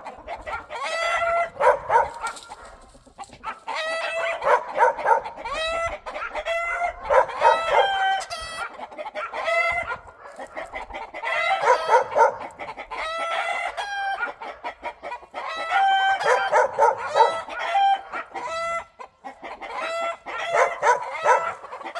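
A flock of cheonggye (green-egg) chickens clucking and calling, many voices overlapping in bursts every couple of seconds.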